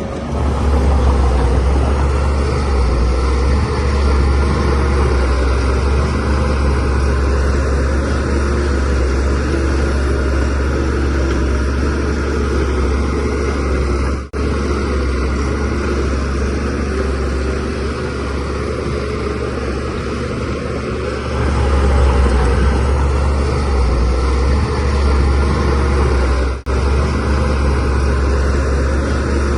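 DH17 C3 Pro crawler bulldozer's diesel engine running under load while pushing soil. It gets louder about a second in and again about two-thirds through, and cuts out for an instant twice.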